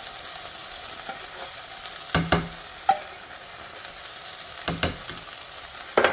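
Onions, carrots and celery sizzling steadily in a soup pot. A few sharp knocks come about two, three, five and six seconds in as canned condensed soup is emptied into the pot.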